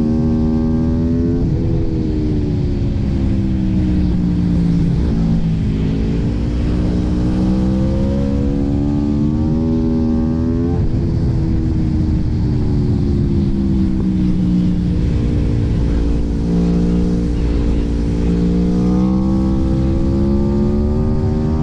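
Aprilia RSV4 Factory's V4 engine running, its note rising and falling slowly over several seconds at a time, with sudden jumps in pitch about a second and a half in and again about eleven seconds in.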